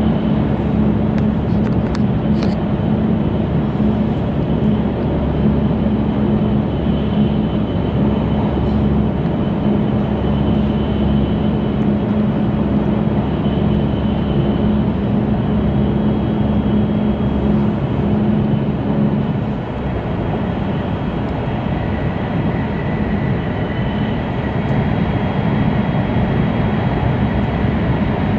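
Running noise inside an E2-series Shinkansen passenger car: a steady rumble with a low hum that drops away about twenty seconds in, after which a faint high whine comes in.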